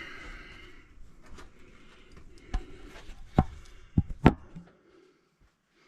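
A few sharp knocks and clicks from handling copper pipe and plumbing fittings, the loudest four spread over a couple of seconds in the middle, over a low background.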